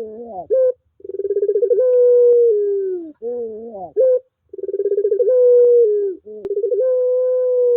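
Puter pelung (long-voiced Barbary dove) cooing over and over: each call opens with a quick stuttering roll, swells into a long drawn-out note that sags slightly in pitch, and ends with a short wavering phrase, repeating about every three and a half seconds.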